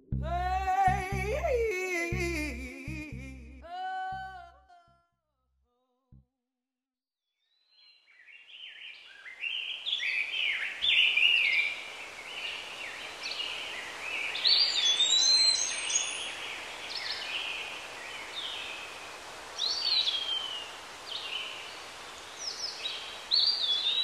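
The song's last notes, with a steady beat underneath, fade out within the first five seconds, and a short silence follows. From about eight seconds, birds chirp and sing in quick short phrases over a steady outdoor hiss.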